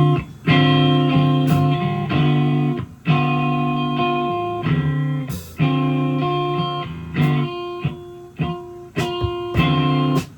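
Live band music led by electric guitar: loud held chords in a stop-start riff, each one cut off by a short gap, with a few sharp hits between them.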